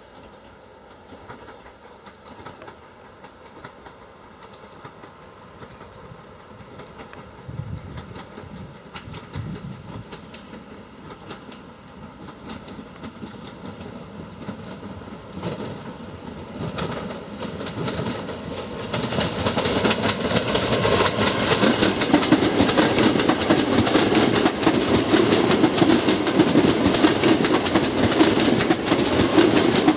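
Newag Impuls electric multiple unit approaching and passing, its running sound growing steadily from faint to loud. From about twenty seconds in it is close, with wheels clattering over the rail joints.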